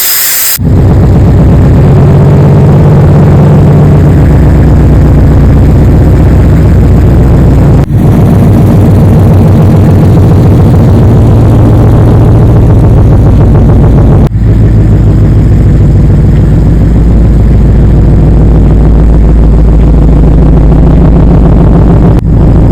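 Ford Mustang engine running loudly and steadily. The sound breaks off briefly at about 8 s and about 14 s, then runs on.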